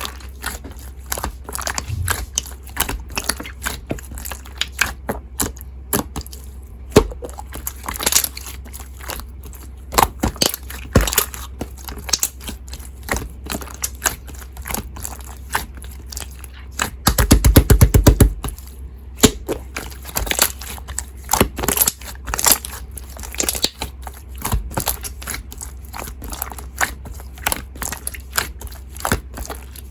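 Slime being squeezed, stretched and pressed by hand, giving a continuous run of small pops and crackling clicks as trapped air bursts, with a louder, denser stretch of squishing about 17 seconds in.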